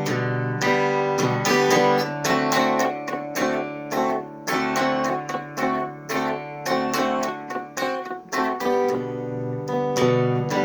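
Instrumental break on acoustic guitar: picked and strummed notes ringing in a country-style melody, with no singing.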